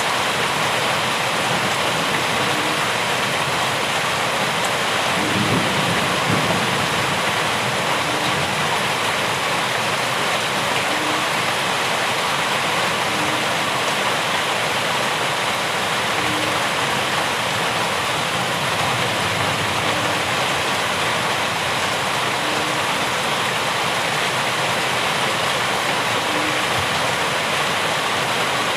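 Steady heavy rain, a dense even hiss of falling rain with a brief low rumble about five to six seconds in.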